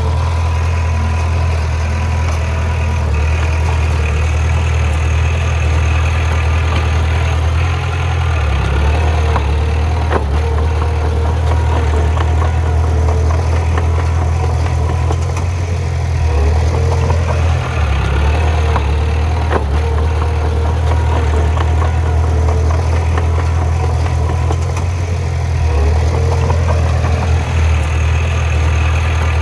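Heavy diesel engine of earthmoving equipment running steadily, its pitch dipping briefly a few times, with a few sharp knocks about ten and twenty seconds in.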